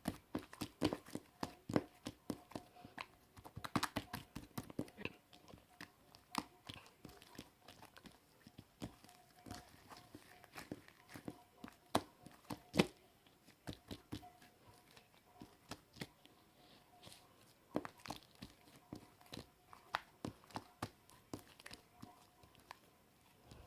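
Slime being kneaded and mixed by hand, giving a run of irregular sticky pops and clicks.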